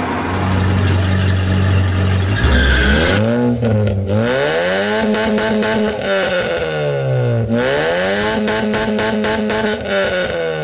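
Sports car engine sound effect: a low steady idle, then revving up from about three seconds in, the pitch dropping sharply once about seven and a half seconds in and climbing again.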